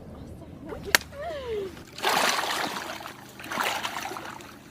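A single shotgun shot about a second in, followed by a short falling call and then a couple of seconds of water splashing.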